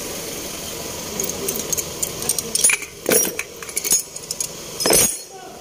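Loose metal pieces clinking and jangling in a run of quick clicks, with two louder knocks about three and five seconds in. A steady low hum in the background drops away near the end.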